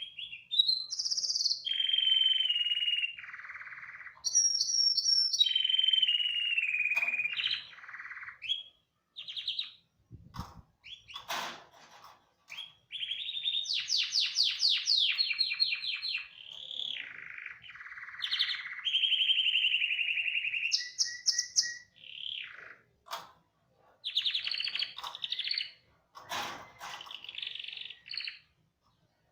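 Domestic canary singing: a run of song phrases, each a rapid trill or a string of repeated notes, some held and some sliding, with short pauses between them.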